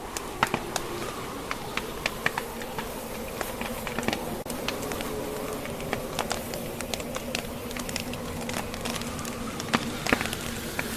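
Wood fire crackling in a fireplace, with irregular sharp pops from the burning logs and a couple of louder pops near the end, over a steady low howl of blizzard wind.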